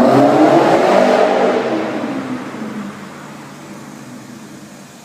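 BMW 445i engine revving loudly with a rising exhaust note for about the first second and a half, then dying away to a low steady hum over the next two seconds.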